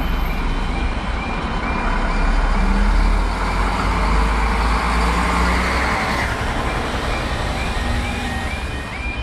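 Railway level crossing warning alarm yelping in short repeated rising tones, about two a second, over heavy steady rumbling noise that swells for a few seconds in the middle.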